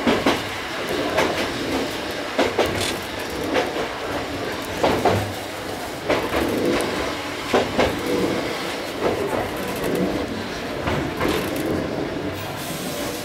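Choshi Electric Railway train running along a single track, heard inside the cab: a steady rumble of wheels and running gear, with sharp clacks every second or two, often in quick pairs, as the wheels pass over rail joints.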